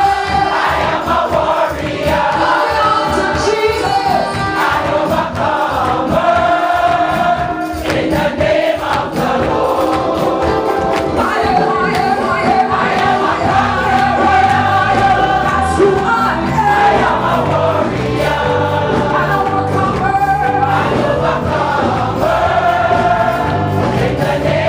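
Gospel choir singing with musical accompaniment; low bass notes join about halfway through.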